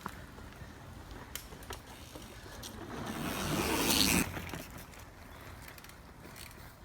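Mountain bike rolling along a dirt trail: tyre noise with scattered clicks and rattles, swelling to a louder rush about three to four seconds in that cuts off sharply.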